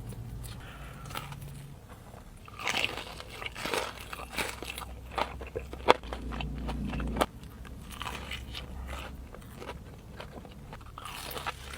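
Close-miked eating: someone biting into and chewing crunchy food, with irregular crunches that are loudest about three to four seconds in.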